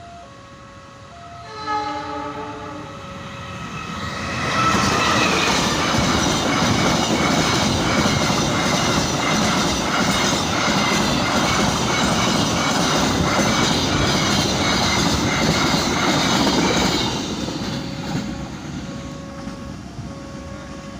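Diesel train giving a short horn blast about two seconds in, then passing close by for some thirteen seconds with loud wheel clatter on the rails before fading away. A repeating two-tone electronic chime rings under it, plainest near the end as the train recedes.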